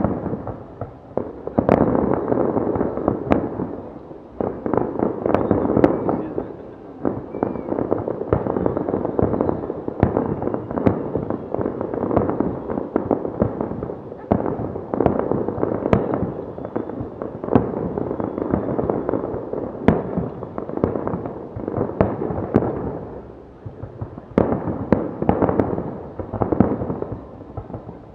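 Large fireworks display: a dense, continuous run of shells bursting with rapid bangs and crackling, louder single reports standing out among them. The barrage eases for a moment near the end, then picks up again.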